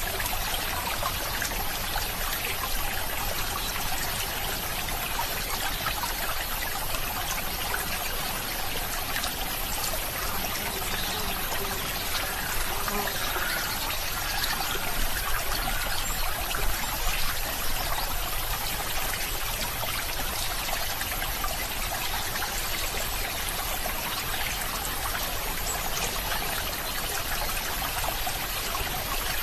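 A stream of water flowing and trickling steadily.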